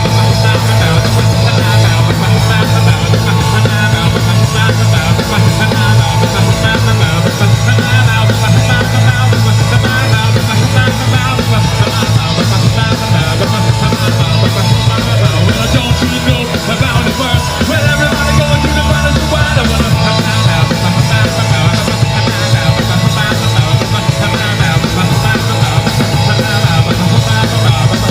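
Loud punk rock band music without words: a stretch of the song carried by bass, drums and guitar. The bass line drops lower about sixteen seconds in and changes again around twenty seconds.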